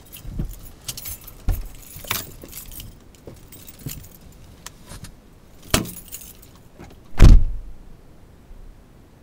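Irregular clicks, rattles and knocks, with the loudest a heavy thump about seven seconds in.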